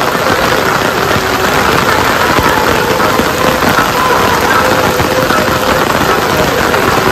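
Heavy rain falling steadily, a dense, even hiss of downpour with no breaks.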